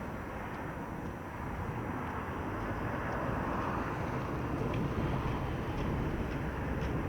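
Steady outdoor rumble of vehicle engines, growing a little louder about two to three seconds in.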